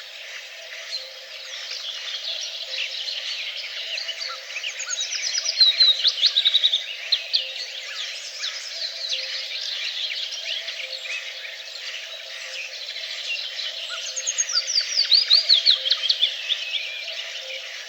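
Several songbirds singing together, a dense chorus of chirps. Twice, about nine seconds apart, one bird's louder song of quick notes runs downward in pitch.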